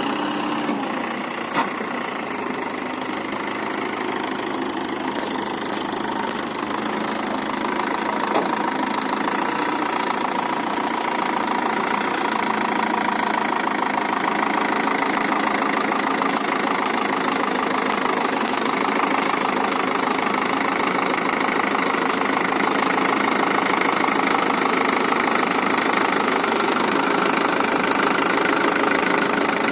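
Mahindra Yuvo 415 tractor's diesel engine running steadily under load with a potato planter, getting gradually louder. A single sharp click comes about a second and a half in.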